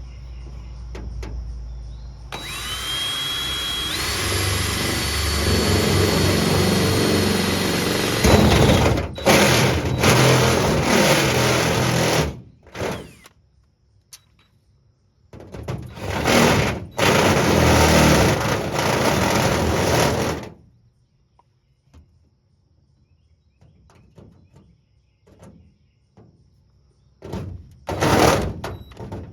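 Power drill with a step drill bit boring holes through sheet metal: a long run of about ten seconds in which the motor's whine climbs and then holds, then several shorter bursts of drilling with pauses between them.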